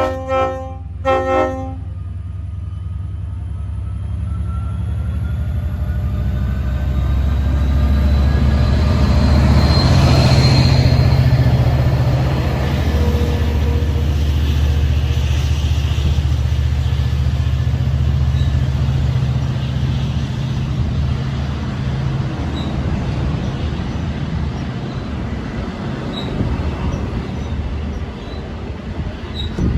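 Long Island Rail Road diesel train sounding two short horn blasts, then running past with a steady low engine and wheel rumble that is loudest about ten seconds in and gradually fades.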